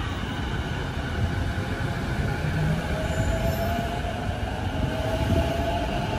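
Musashino Line electric commuter train pulling out and accelerating away, with a steady rumble of wheels on rails. From about halfway through, the motors give a thin whine that slowly rises in pitch.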